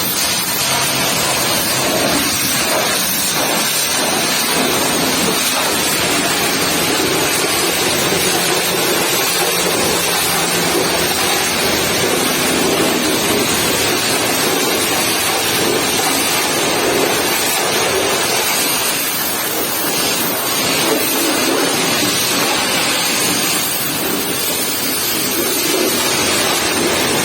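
Pressure washer's high-pressure water jet spraying against a truck's body: a loud, steady hiss of water with no breaks.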